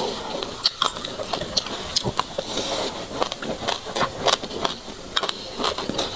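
Close-up chewing of a mouthful of sesame seeds: quick, irregular crunchy clicks and mouth sounds, several a second, mixed with a plastic spoon scraping through the seeds in a glass mug.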